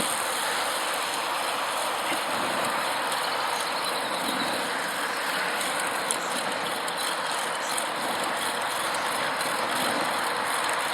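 Steady rush of air and road noise from a recumbent bicycle rolling along at speed, with faint rapid ticking of the bike's freewheel ratchet in the second half.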